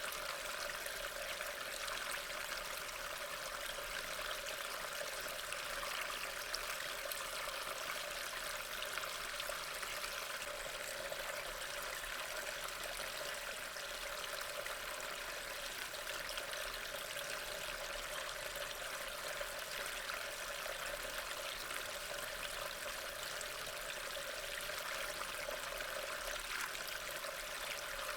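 Steady rain falling, an even wash of drops with no change in level.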